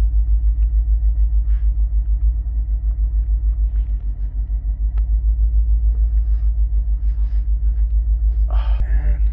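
Ford truck engine idling through its temporary exhaust: a deep, steady rumble that pulses about six times a second.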